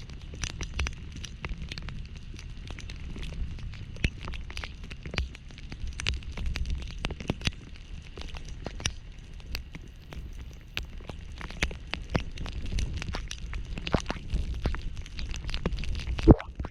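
Heavy rain pelting the microphone in many irregular sharp taps over a steady low rumble.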